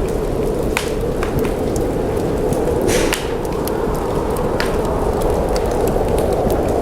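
Wood fire crackling in a fireplace, with irregular sharp crackles and one louder crack about three seconds in, over a steady low rush of snowstorm wind.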